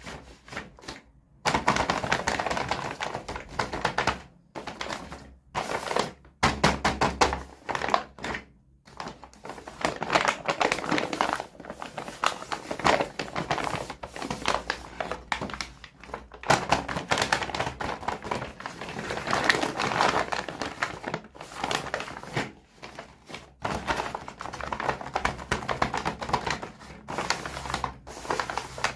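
Toy packaging being handled and opened: dense, rapid clicking and crackling in irregular stretches, broken by short pauses.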